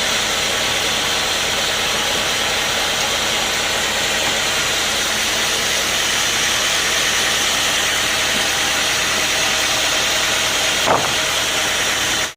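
Sawmill machinery running steadily with an even, unchanging engine noise. A single sharp knock comes about eleven seconds in, and the sound cuts off suddenly at the very end.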